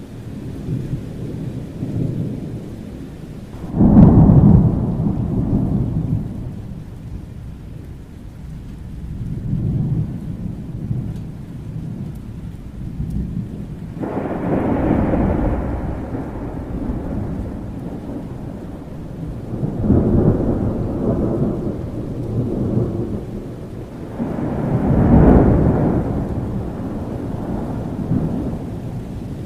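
Thunderstorm: steady rain with repeated deep rolls of thunder. The loudest clap breaks in suddenly about four seconds in, and several more rumbles swell and fade through the rest.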